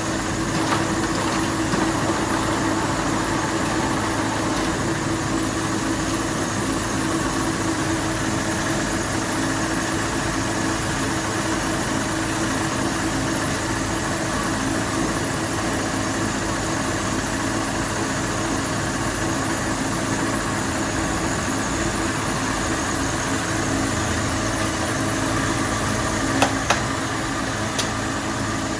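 Factory machinery running with a steady hum, with two sharp clicks near the end.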